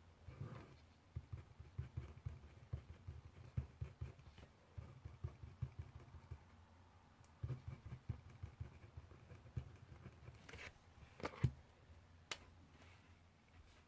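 Pencil writing on paper at a desk: a run of soft, quick low taps as the strokes go down, then a few sharper scratches or paper rustles near the end.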